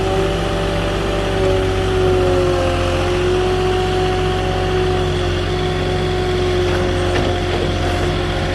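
Moffett truck-mounted forklift's engine running steadily, a low drone with a steady whine above it.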